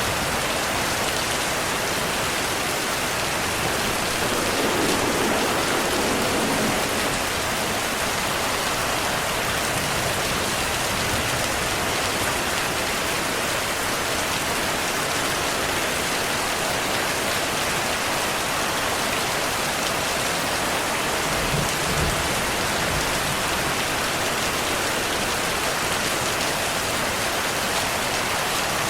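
Heavy rain falling steadily in an even hiss, with a low rumble of thunder about five seconds in and again about twenty-two seconds in.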